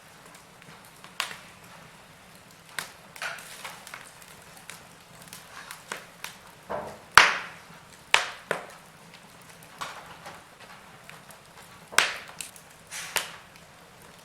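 Wood fire crackling, with irregular sharp pops over a faint hiss. The loudest pop comes about halfway through.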